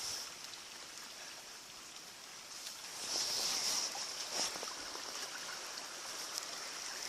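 A stream flowing steadily, with a few faint clicks.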